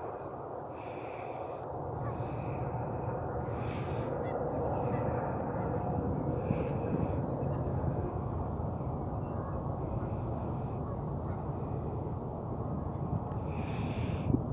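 Crows cawing several times, spaced apart, with short high chirps from smaller birds scattered between them over a steady low background rush.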